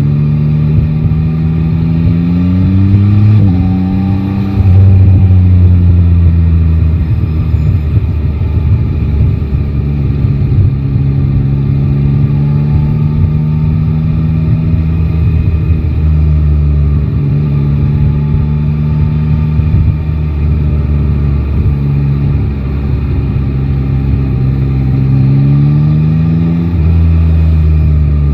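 Yamaha Tracer 9 GT's three-cylinder engine pulling through city traffic: the revs rise and drop with an upshift about three seconds in, then run steady at cruising speed for most of the time, before climbing again near the end with another shift. A rush of wind and road noise lies under the engine throughout.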